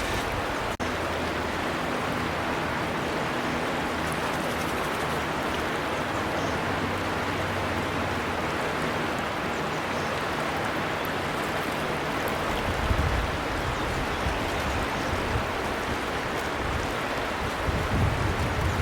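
River water flowing with a steady, even rush. A brief dropout about a second in, and low rumbles come and go in the second half.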